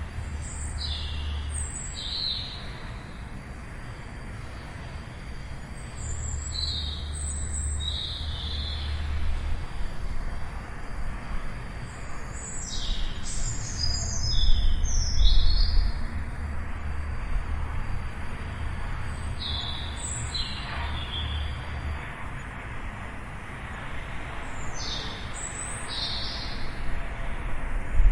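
Small birds chirping: short clusters of quick, high calls every five or six seconds, over a steady low rumble.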